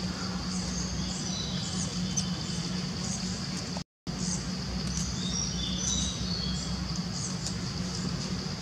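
Small birds chirping in short, scattered calls over a steady high-pitched drone and a low hum; the sound cuts out completely for a moment about four seconds in.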